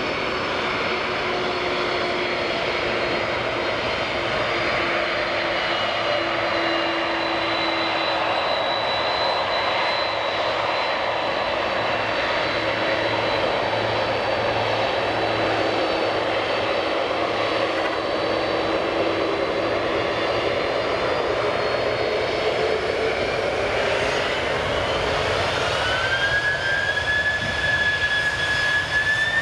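Large jet airliner's engines running with a steady rush and whining tones. About two-thirds of the way in, the whine rises in pitch and then holds at the higher note, as the engines spool up.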